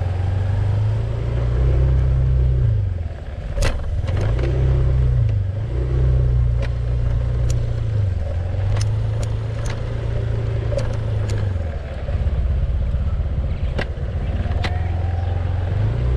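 A vehicle engine running, repeatedly rising in pitch and easing back off in swells of a second or two, with scattered sharp clicks and knocks over it.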